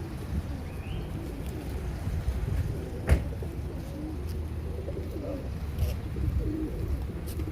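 A flock of pigeons cooing, many low wavering calls overlapping, as they gather to feed on scattered corn. A single sharp knock a little after three seconds in is the loudest sound.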